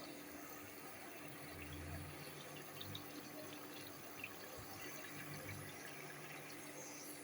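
Onions steaming gently in a stew pot: a faint, steady hiss with a few small crackles.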